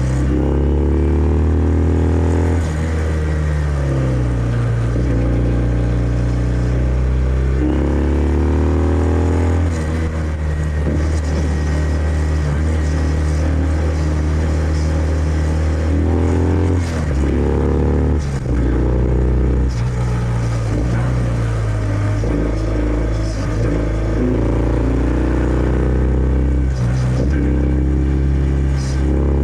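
Kawasaki W650's air-cooled parallel-twin engine running through its stock exhaust while being ridden: the engine note climbs under acceleration and drops back at each gear change, several times, with a steadier stretch of cruising in the middle.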